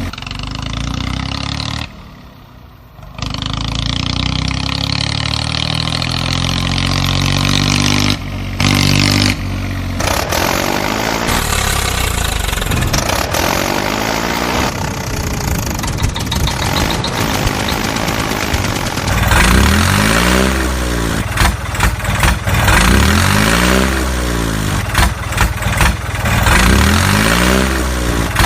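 An engine runs steadily, dropping out briefly about two seconds in. In the second half it is revved up and down again and again, about once every two seconds.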